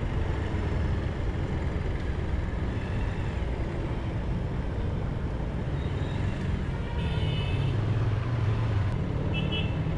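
Motorcycle running steadily on the road, a continuous low engine rumble with road noise, heard from the rider's camera. Two short high tones cut in briefly, about seven and nine and a half seconds in.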